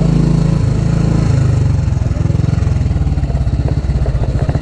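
Old Royal Enfield motorcycle engine running close by, a steady note that after about a second settles into a pulsing idle beat.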